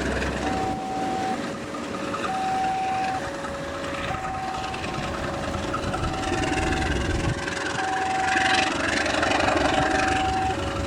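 Railway level-crossing alarm sounding a two-tone electronic signal, a higher and a lower note alternating steadily, each held for about a second, over the rumble of a diesel train nearby. The alarm warns that the crossing is closed for a train.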